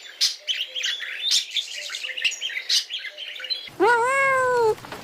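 Many small birds chirping rapidly for about three and a half seconds, then one loud, drawn-out cat meow lasting about a second.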